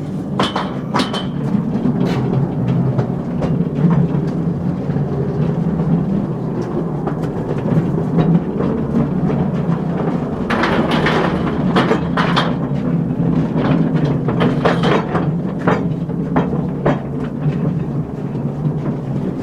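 Steel wheels of a small mine car rolling along mine rails: a steady rumble broken by frequent clanks and knocks, thickest around the middle.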